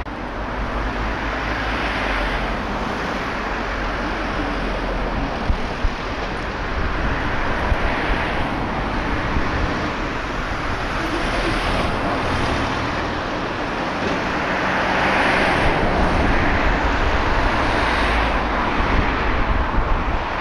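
Train running through the station: a steady rumble and rail noise that swells and eases every second or so, with a few sharp clicks. Wind on the microphone mixes in.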